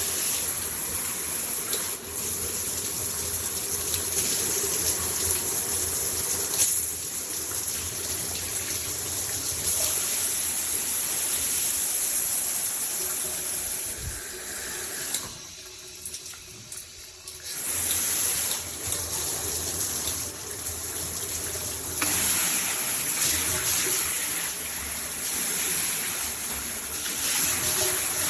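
Water spraying hard from a Cobbe handheld filtered shower head, a dense, steady hiss of spray. The hiss shifts in character several times and almost stops for about two seconds a little past the middle before coming back.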